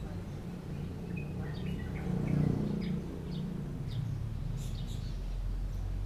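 Small birds giving short, high chirps now and then, over a low background rumble that swells for a moment a couple of seconds in.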